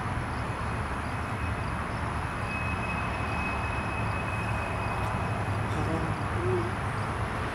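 Freight train cars rolling past: a steady rumble and rolling noise, with a thin, steady wheel squeal for a couple of seconds in the middle.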